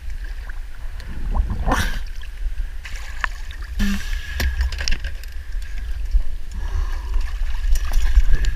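Sea water splashing and sloshing around a camera held at the surface, with a low rumble, while a diver climbs a boat's stainless boarding ladder. Scattered light knocks and clicks of gear against the ladder and hull, most of them about three to five seconds in.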